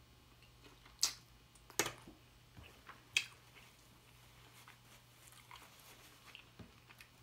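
Hard-shell taco being bitten and chewed close to the microphone: a few sharp crunches in the first three seconds or so, then quieter chewing.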